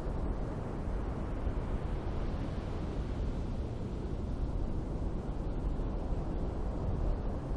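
Ocean surf washing on a beach, a steady roar of noise that swells for a couple of seconds in the middle, with wind rumbling on the microphone.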